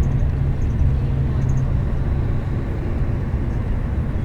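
Interior of a moving bus: steady low engine and road rumble, with an engine note that fades out about a second and a half in.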